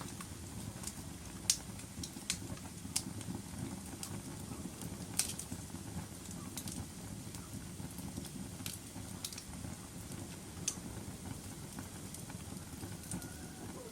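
Wood fire burning in a fireplace: a steady low rumble of flames with sharp crackles and pops at irregular intervals, about ten in all.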